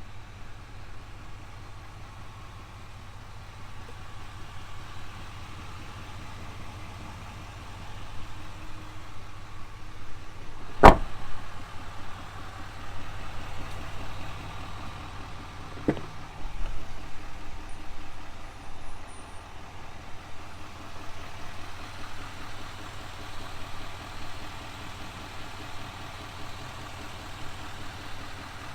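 A 6.6-liter turbodiesel V8 idling with a steady low hum. A single sharp click about eleven seconds in is the loudest sound, and a fainter click follows about five seconds later.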